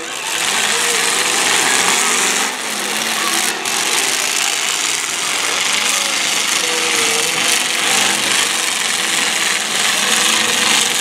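Several demolition-derby car engines running and revving together in a loud, continuous din.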